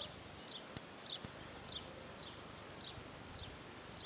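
A bird calling: a short, high, downward-sliding note repeated steadily, a little under twice a second, faint over quiet outdoor background.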